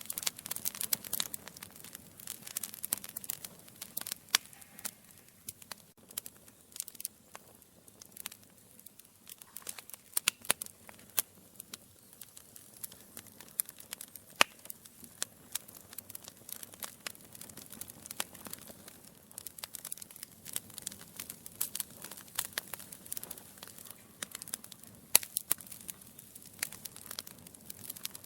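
Wood logs burning in a fireplace, crackling and popping irregularly over a soft hiss, with the sharpest pops about four seconds in, about fourteen seconds in and about twenty-five seconds in.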